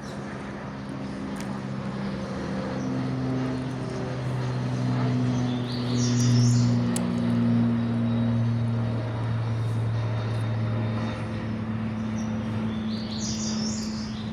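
Twin-engine propeller airplane droning overhead, a steady low hum whose pitch drifts slightly and grows loudest about six seconds in. Birds chirp briefly twice.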